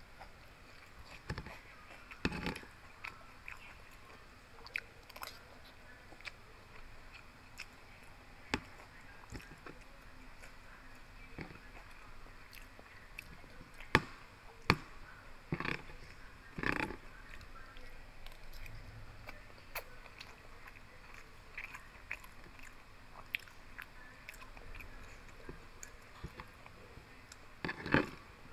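Close-miked chewing and mouth sounds of someone eating pork belly with rice. Sharp clicks and scrapes of a metal spoon against the plastic food container come through at intervals, the loudest around the middle and near the end.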